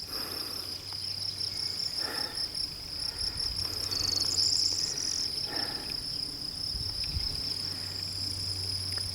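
Crickets singing: a steady, high-pitched trill that runs on without a break, with a brighter, louder trill joining for about a second around four seconds in.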